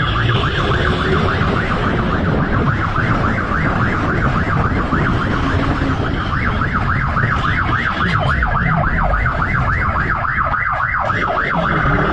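Police siren on its fast yelp setting, about four rising sweeps a second, over the low rumble of engine and wind noise.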